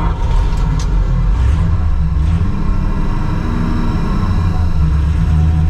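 Tucker Sno-Cat driving in gear: its engine and tracks make a loud, steady low rumble that comes in suddenly at the start.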